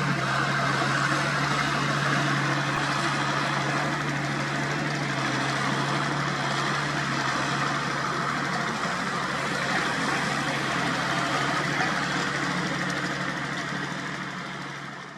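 Diesel engine of the heavy equipment idling steadily with a low hum, fading out near the end.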